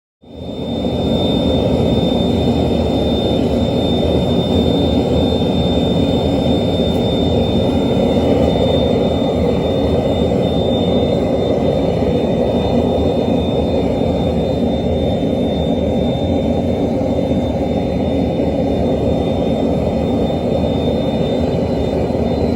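Forge burner running: a steady low rushing noise with a thin, steady high whine over it.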